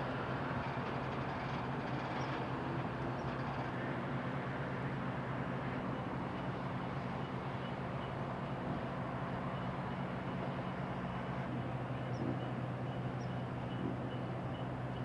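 Tugboat diesel engine running steadily, a low, even drone.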